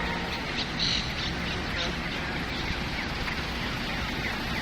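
Audible pedestrian crossing signal making rapid, repeated falling bird-like chirps that signal it is safe to walk, over steady street hum.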